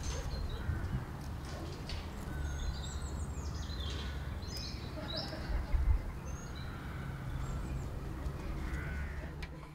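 Small birds chirping and singing in short high calls, over a steady low rumble.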